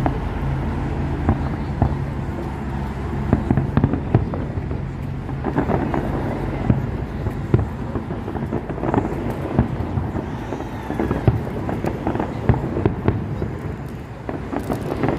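Fireworks display going off: many sharp bangs and crackling pops in rapid, irregular succession.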